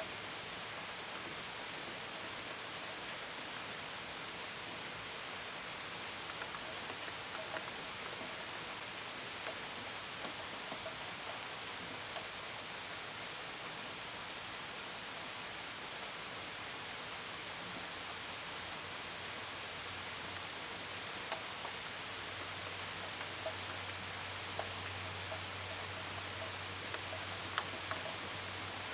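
Steady rain with individual drops ticking against a window and gutters, and a cricket chirping at regular intervals. A low, steady hum comes in about two-thirds of the way through.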